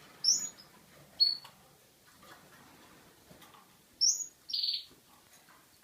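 Male Russian song canary giving short, high chirps: two about a second apart near the start, then a pause, then two more close together about four seconds in.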